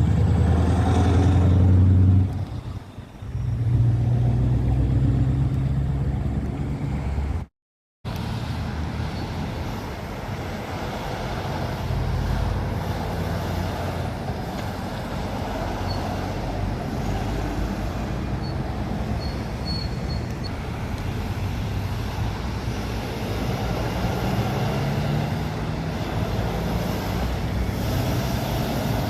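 Heavy trucks driving by on a road. A diesel engine's low note is strong for the first seven seconds, broken by a short dip and then a sudden cut to silence. After that there is steady traffic and tyre noise.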